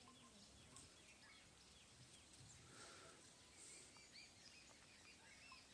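Near silence: faint open-air ambience with small birds chirping, short high chirps a few times a second.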